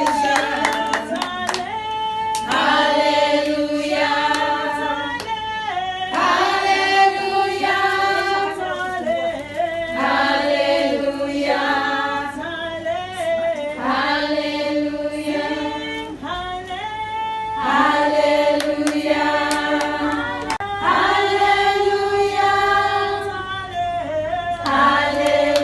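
Several voices singing together in chorus, with long held notes in repeating phrases about four seconds apart.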